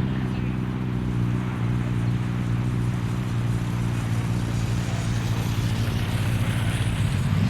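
An engine idling steadily, its pitch rising briefly near the end as it is revved.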